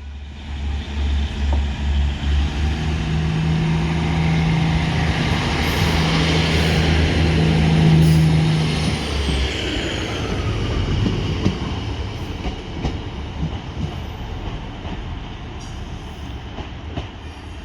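Diesel multiple unit moving past on the rails, its engine running with a steady low drone that grows louder until about eight seconds in. The drone cuts out about a second later, and the wheel rumble on the track fades away.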